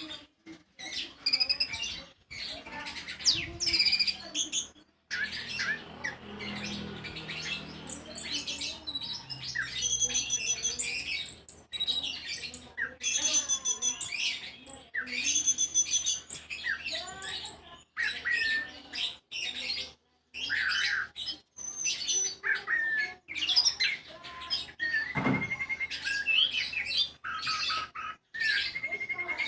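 A songbird singing a long, varied song of quick whistles, chirps and trills in rapid phrases, broken by brief pauses.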